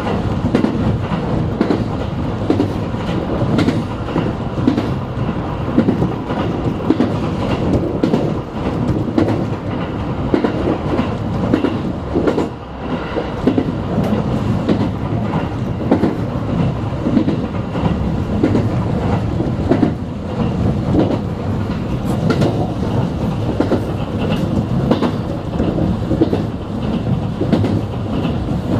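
JR West 221 series electric train running at speed, heard from inside the carriage: a steady rumble of wheels on rail, with frequent clicks as the wheels pass over rail joints.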